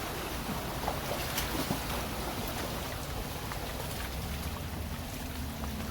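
Steady low engine hum under a continuous outdoor hiss, with a few faint clicks about one to two seconds in.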